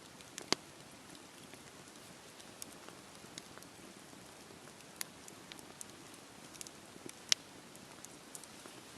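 Campfire crackling, with scattered sharp pops over a steady hiss of falling rain; the loudest pops come about half a second in and about seven seconds in.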